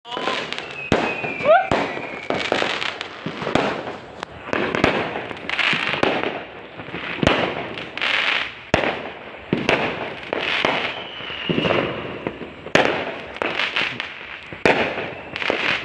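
Fireworks going off in a dense barrage: repeated sharp bangs with crackling between them. A few whistling tones glide in pitch near the start and again about two thirds of the way through.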